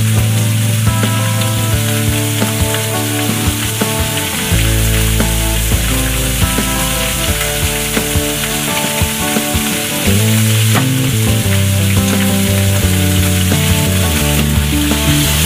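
Food sizzling as it fries in a pan, with frequent light clicks of stirring. Background music with held keyboard notes and a deep bass plays over it.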